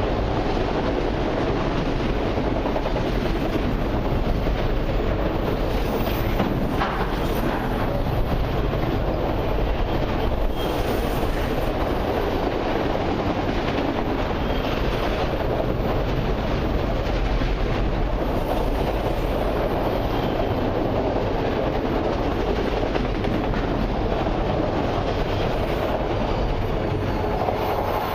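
Freight train of autorack cars rolling past, a steady loud rumble of steel wheels on the rails.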